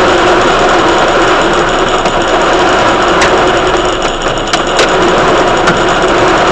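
A small engine running steadily with a constant hum, with a few faint ticks in the second half.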